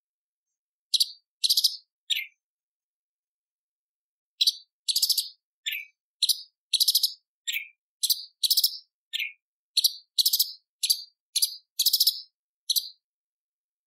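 Cucak cungkok leafbird giving a rapid run of short, harsh, scratchy call notes, some dropping to a lower falling note, with a pause of about two seconds before the run picks up again.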